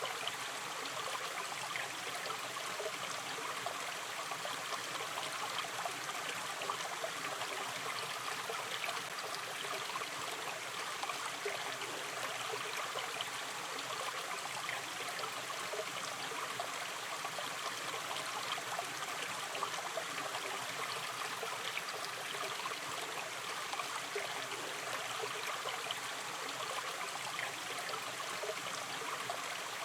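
A gently flowing river stream, a steady rush of water with many small trickles and gurgles.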